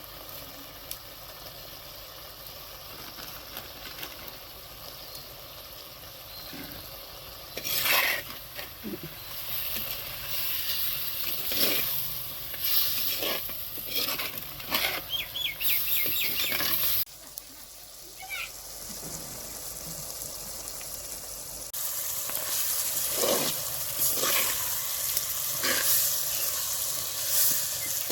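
Chicken pieces frying and sizzling in a pan, stirred now and then with a spoon, which clatters and scrapes against the pan several times.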